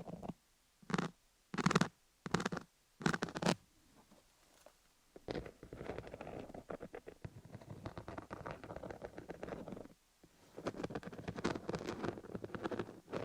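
Fingers scratching over a dummy-head microphone studded with cubic zirconia stones. First come a few short strokes, then long runs of rapid scratching with a brief break about ten seconds in.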